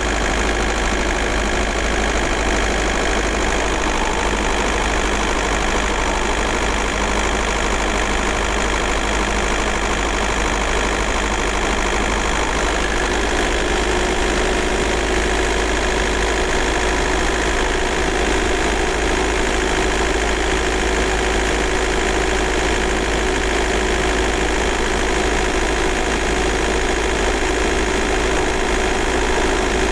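VW Golf Mk4's 1.9 TDI four-cylinder turbodiesel (AJM) running steadily with diesel clatter, heard from inside the cabin.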